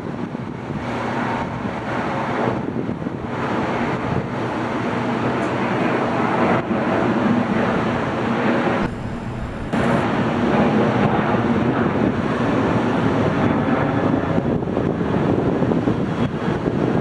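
Jet airliner engines heard at a distance: a steady rushing noise that slowly grows louder, with a brief dip about nine seconds in.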